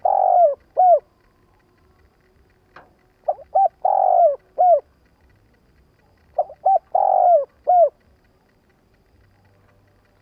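Spotted dove cooing its song phrase of two short coos, a longer burred coo and a final coo, repeated about every three seconds; it is a caged decoy dove calling. The song stops about two-thirds of the way through.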